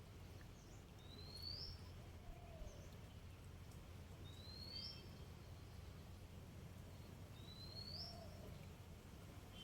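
A bird gives three short, rising whistled calls about three seconds apart over a faint low rumble.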